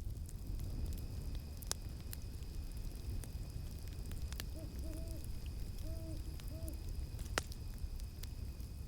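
Owl hooting four short notes in a row about halfway through, over a campfire's steady low rumble and scattered crackling pops, one sharp pop standing out near the end. A steady high insect drone, cicada-like, runs underneath and stops just before the end.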